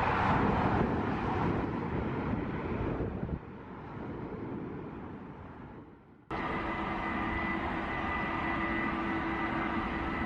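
Jet airliner engines: a loud rush that fades and drops away abruptly about three and a half seconds in, then a sudden change a little past six seconds to steady engine noise with a constant whine.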